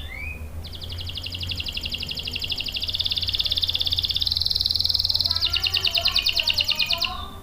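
Domestic canary singing. A short falling chirp opens the song, then a long, rapid rolling trill runs for several seconds and changes to a second, faster trill about five seconds in, over a low steady hum.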